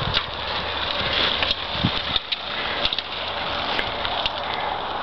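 Bicycle rolling over rough ground: a steady rushing noise with scattered clicks and knocks.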